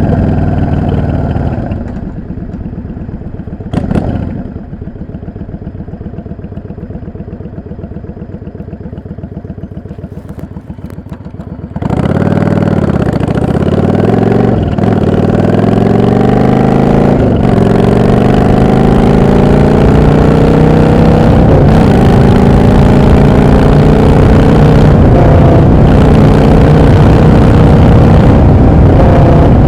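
Yamaha V-Star XVS 650 bobber's V-twin engine ticking over low for about twelve seconds, with a brief blip about four seconds in. It then opens up and accelerates hard, its pitch climbing and dropping back at two gear changes before pulling steadily higher.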